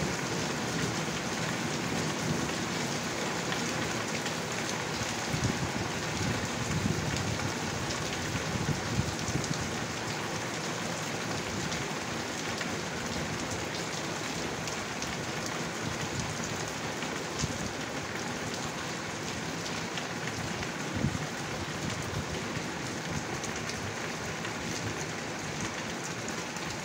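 Heavy rain pouring down steadily, a dense hiss with many small drop ticks on surfaces. A low rumble at the start eases off within the first few seconds.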